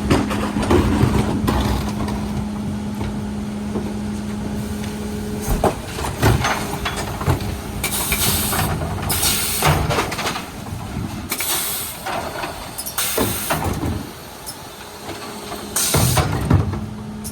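Mercedes Econic refuse truck running, with a steady hum for the first five seconds or so, then five short sharp hisses of air over the next several seconds.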